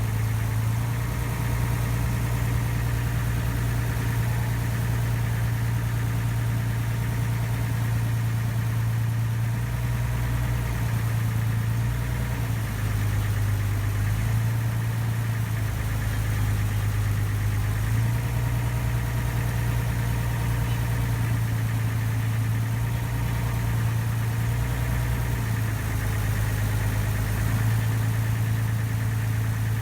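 A ferry's engine running steadily: a low, even drone that swells and eases slightly every few seconds.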